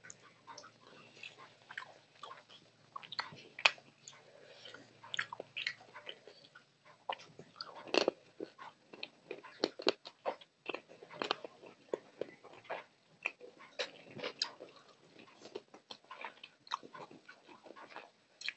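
Close-miked eating by hand: wet chewing and lip smacking on a mouthful of rice and fish curry, a quick irregular run of clicks and smacks with no words.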